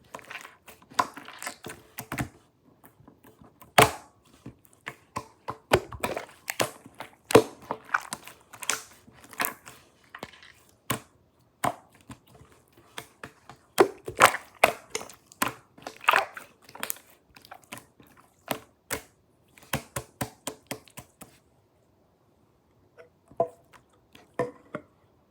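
Slime being squeezed, pressed and stretched by hand, giving a quick irregular run of sticky clicks and small popping sounds. The clicking stops about 21 seconds in, and a few more clicks follow near the end.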